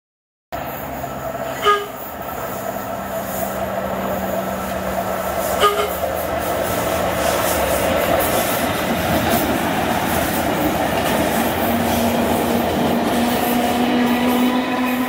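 1938 Tube Stock electric train sounding two short horn toots about four seconds apart as it approaches, then running through with a steadily building rumble of wheels on rails. Near the end a low hum rises slightly in pitch.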